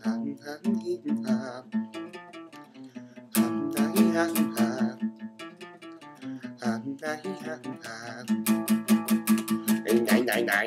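Acoustic guitar playing an instrumental passage, mixing picked notes with fast rhythmic strumming. It gets louder with heavy strumming about three and a half seconds in, eases off, then strums hard again near the end.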